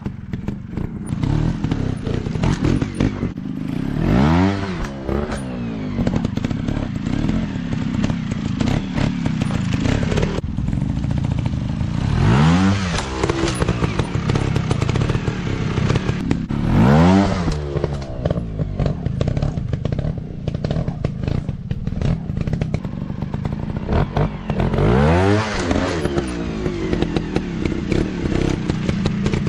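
Dirt bike engines running and revving hard, with the pitch climbing and falling about four times, over steady engine noise and rattling clatter.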